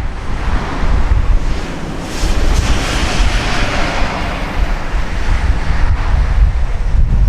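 Wind buffeting the microphone with a heavy low rumble, and a broad rushing hiss that swells about two seconds in and fades out by about five seconds.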